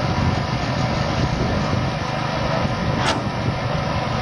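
Engine of the concrete-pouring equipment running steadily at a construction pour, with one short sharp click about three seconds in.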